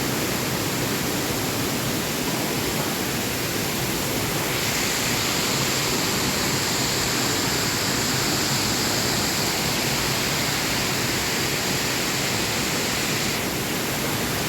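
Waterfall cascade at Erawan Falls, water rushing steadily, with a brighter, hissier stretch through the middle.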